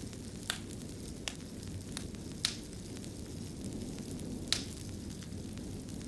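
Wood fire burning in a fireplace: a steady low rumble of flames with scattered sharp crackles and pops, the loudest pops about two and a half and four and a half seconds in.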